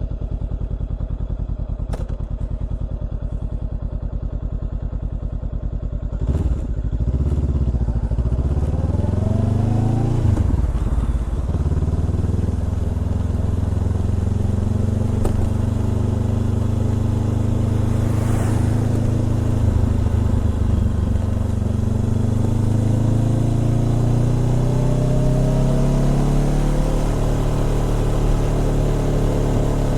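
Honda CBR400R's parallel-twin engine through a Trick Star Ikazuchi exhaust, idling steadily, then pulling away about six seconds in. Its pitch rises through the gears with short dips at the shifts, climbs slowly at a steadier pace, and drops near the end.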